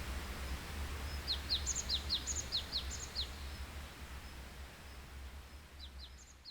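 Small songbirds calling: a quick run of about seven short, high, downward-sliding chirps about a second in, and a few more near the end. Under them is a steady hiss of forest ambience that fades down over the last seconds.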